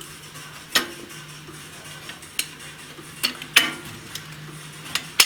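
A few sharp, separate metallic clinks of hand tools and valve-adjusting shims on a VAZ-2109 cylinder head, heard over a faint steady hum.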